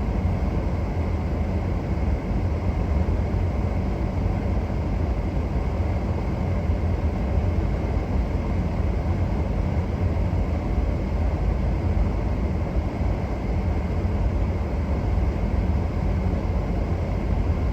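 Strong gusty winter-storm wind buffeting the microphone: a steady low rumble with a hiss above it.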